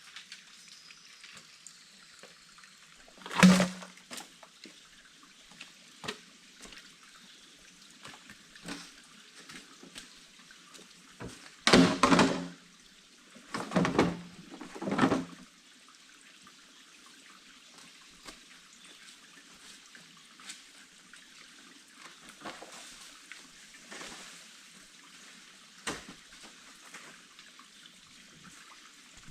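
Water sounds in four short, loud bursts, the loudest near the middle, over a faint steady hiss and a few small clicks.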